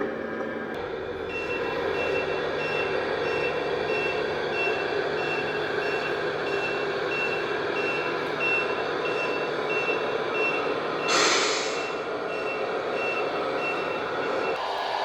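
Reversing beeper of a scale RC truck's sound unit beeping steadily, about one and a half beeps a second, over a steady engine hum. A short air-brake hiss comes about 11 seconds in.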